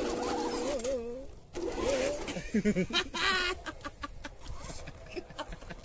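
Birds calling: wavering, cooing notes, then a short warbling, clucking call about three seconds in.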